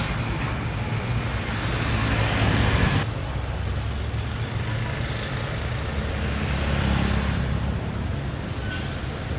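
Road traffic with heavy trucks passing: a steady low engine rumble with tyre and road noise. The hiss drops off abruptly about three seconds in, then swells again and fades.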